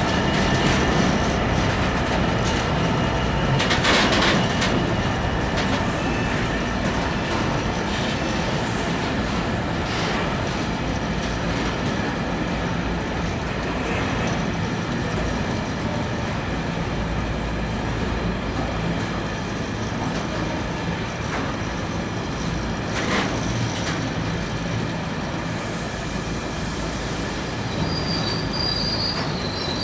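Freight train hauled by a Class 66 diesel locomotive arriving at a station: wagons rolling steadily over the rails with a few clanks and a constant thin wheel squeal. High-pitched squeals grow sharper near the end as the train slows.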